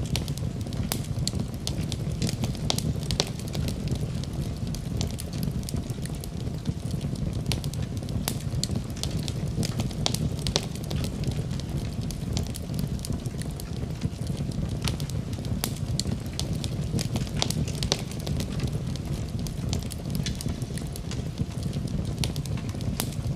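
Fire burning in a fireplace: a steady low rumble of flames with frequent, irregular crackles and pops.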